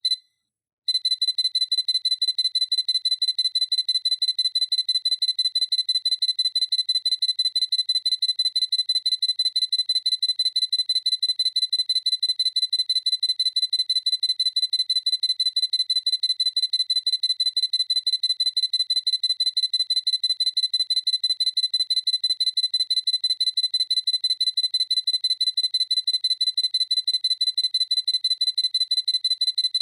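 Sony A7C camera's focus-confirmation beep: a single high electronic beep at the start, then the same beep repeated in a rapid, steady series from about a second in.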